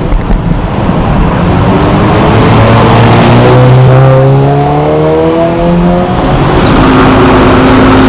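Supercar engine running loud, its note climbing steadily for several seconds, then holding steadier near the end as the car gets ready to pull away.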